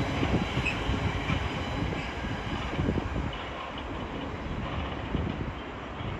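Intermodal freight train's container wagons rolling past, wheels knocking irregularly on the rails with a few faint brief squeals. The sound slowly dies away.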